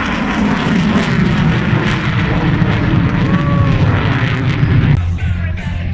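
Loud aircraft engine noise from an airshow fly-by: a dense rush with a heavy low rumble. It cuts off abruptly about five seconds in, where music takes over.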